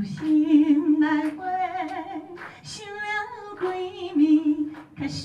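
A woman singing a slow melody live, holding long notes, some with vibrato.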